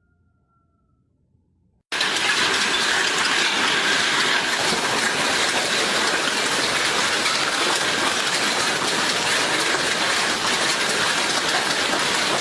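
Hailstorm: hail and heavy rain pouring down, a loud dense hiss full of fine rapid pattering impacts. It starts abruptly about two seconds in, after near silence.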